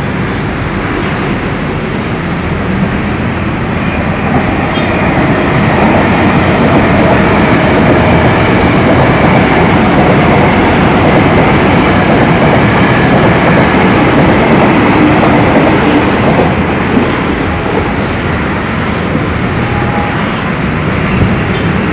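KRL Commuter Line electric commuter train running past on the tracks below: a steady rumbling rail noise that grows louder a few seconds in, stays loudest through the middle and eases a little near the end.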